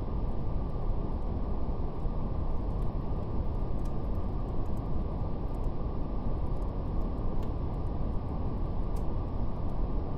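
Steady brown noise, a deep even rumble-like hiss with no highs, with a faint fire crackle: a few soft scattered pops.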